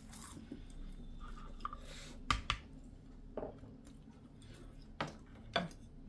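Close, soft chewing of a mouthful of rice wrapped in roasted seaweed, broken by a few sharp clicks and taps.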